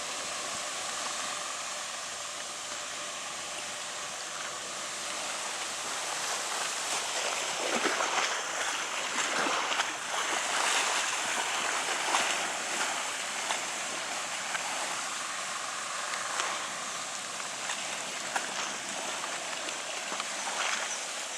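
River water rushing and splashing, a steady hiss that grows rougher and louder in irregular surges through the middle stretch.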